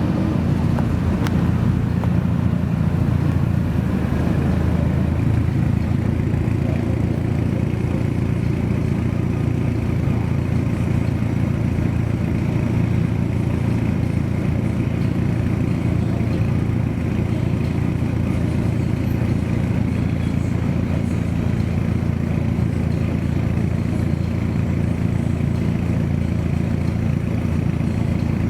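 Modified car's engine idling steadily: a low, even exhaust note that neither revs up nor fades.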